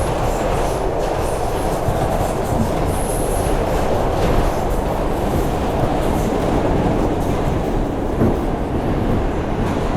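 R142 subway train running between stations: a steady rumble of wheels on rail, with brief faint high-pitched wheel squeals near the start and about three seconds in.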